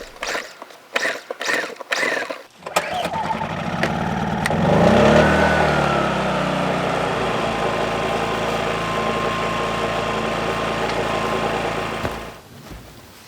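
A few clicks and knocks, then a small portable generator engine starts about three seconds in, revs up and settles into a steady run before cutting off near the end.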